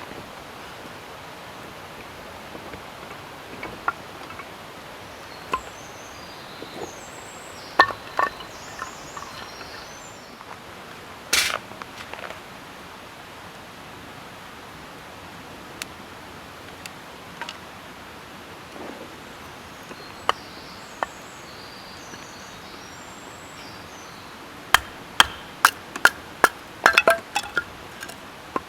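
Scattered sharp clicks and knocks over a steady outdoor background, with a quick run of about ten of them near the end.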